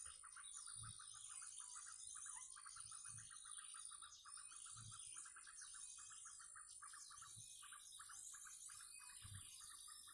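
Faint chorus of small birds chirping and calling, over a fast, even pulsing trill and a steady high whine.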